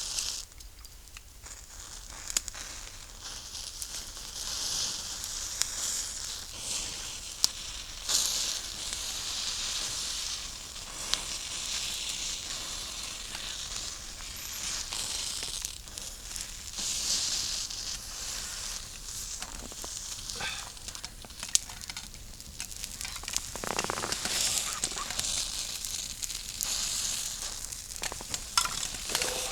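Pork frying in a pan over a campfire: a steady sizzle that swells and fades, with scattered sharp pops.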